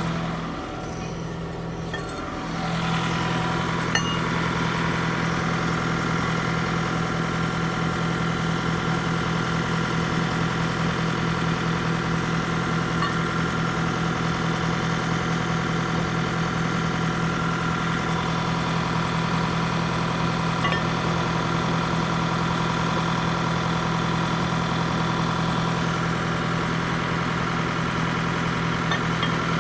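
Heavy truck's diesel engine idling steadily with an even low pulse; it drops quieter for a moment about a second in, then returns to the same steady idle.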